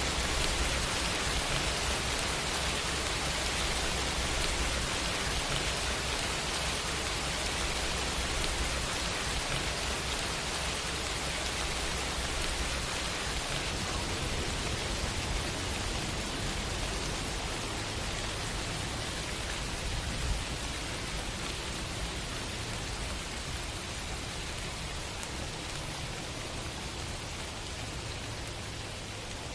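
Steady rain falling, an even dense hiss with a low rumble underneath and one small knock about two-thirds of the way through; it eases slightly near the end.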